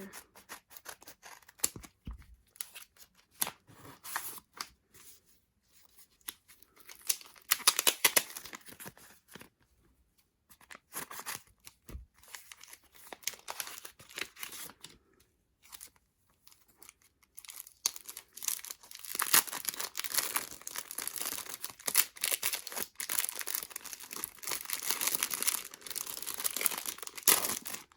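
Packaging being torn open and crinkled by hand, in irregular bursts, with a long stretch of steady crinkling and tearing in the second half.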